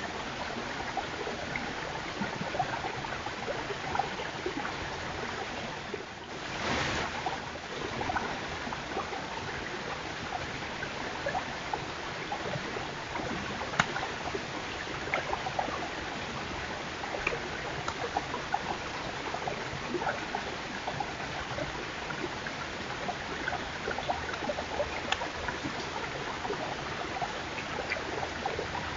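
White-tailed deer chewing apples close to a trail camera's microphone: many small irregular crunches and clicks over a steady hiss, with a brief rush of noise about six seconds in.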